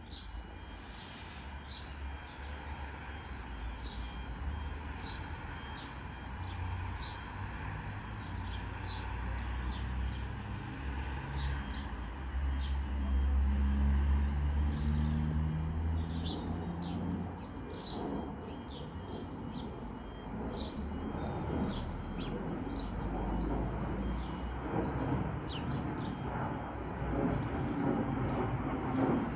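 Small birds chirping repeatedly over a steady low rumble, which swells in the middle and again near the end.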